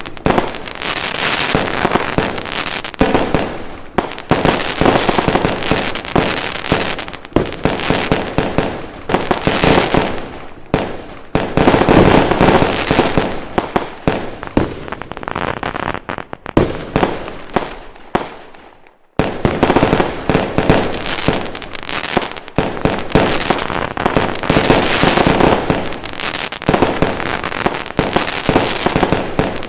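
Fireworks going off in a dense, continuous barrage of bangs and crackling. Around two-thirds through, the noise dies away briefly, then resumes suddenly at full strength.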